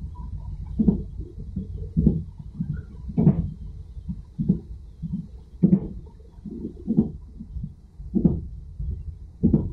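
Passenger train running along the track: a steady low rumble with a regular clack of wheels over rail joints about every second and a quarter, and lighter knocks between.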